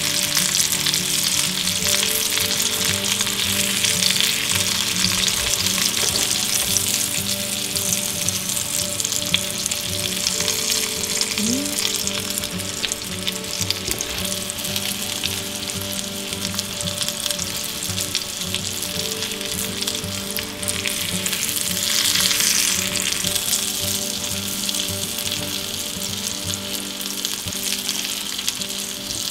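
Breaded pork schnitzel shallow-frying in hot oil in a pan: a steady sizzle and crackle, swelling briefly a little past twenty seconds in.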